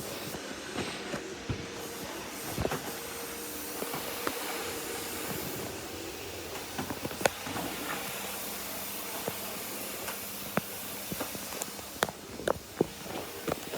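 Vacuum cleaner running steadily, a continuous hiss of suction with a faint hum, broken by scattered clicks and knocks that come more often near the end.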